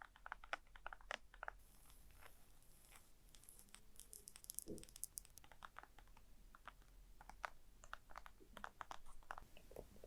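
Gentle tapping and scratching on small objects close to the microphone: a quick run of soft taps at first, a light hissy scratching from about a second and a half in, then scattered single taps.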